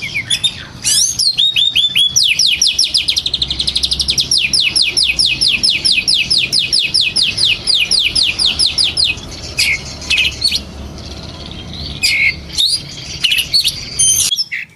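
Oriental magpie-robin (kacer) singing. After a few opening chirps it delivers a long, rapid run of repeated falling whistled notes, about seven a second for some seven seconds, then breaks into scattered single chirps.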